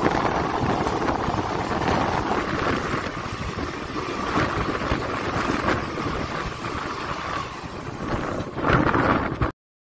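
Steady rush of wind on the microphone and rolling train noise, heard from the doorway of a moving passenger train as a second passenger train passes close alongside on the next track. It swells briefly, then cuts off suddenly near the end.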